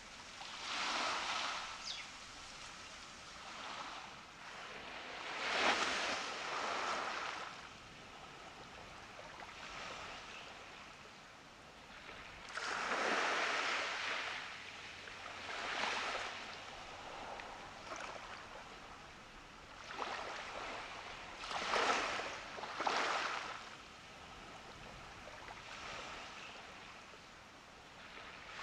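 Ocean surf breaking on a beach, with waves surging in and washing back every few seconds over a steady hiss of water.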